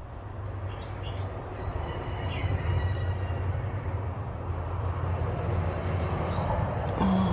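Outdoor ambience: a steady low rumble, with faint bird chirps above it.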